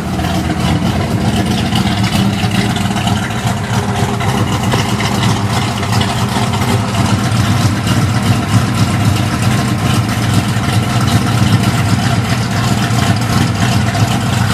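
Freshly rebuilt 1976 Oldsmobile 455 V8, bored .030 over to about 461 cubic inches, idling with a lopey, uneven beat.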